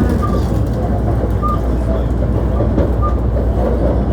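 Hankyu 1300-series commuter train running between stations, heard on board: a steady, loud rumble of wheels and running gear.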